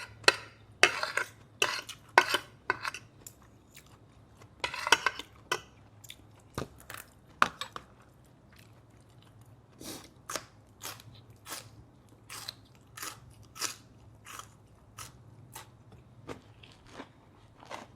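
Close-miked chewing and crunching of grilled pork neck salad with rice. A few loud sharp bites and clinks come in the first six seconds, then steady chewing at about two strokes a second.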